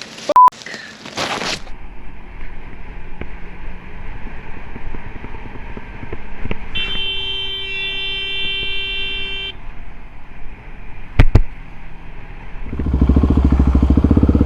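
Street traffic noise with a vehicle horn held for about three seconds, then a single sharp knock. Near the end a motorcycle engine comes in loud with an even, pulsing note, and a short beep sounds right at the start.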